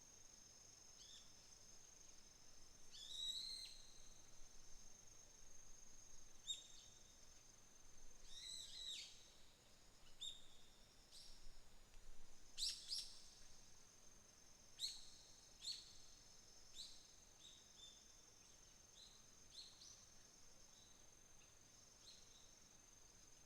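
Autumn insects trilling steadily at a high pitch, with wild birds giving a scatter of short chirps and calls over the top, busiest in the middle. Faint overall.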